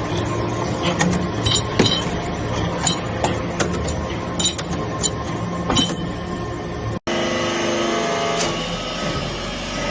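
Hydraulic baler press running on aluminum turnings: a steady machine hum with scattered sharp metallic clinks. The sound cuts out for an instant about seven seconds in and resumes with a somewhat different hum.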